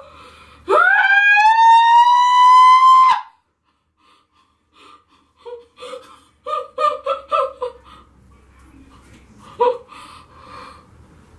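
A woman's long high-pitched wail that rises and is then held for about two seconds, as she reacts to the burning, stiffening peel-off face mask. After a pause come a run of short broken whimpering sounds and one more brief cry near the end.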